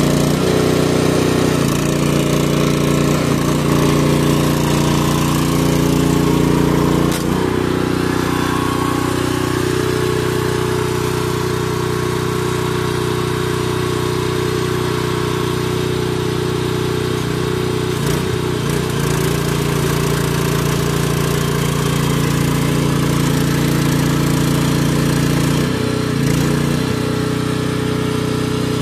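An engine running steadily and loudly, its pitch and load shifting slightly a few times.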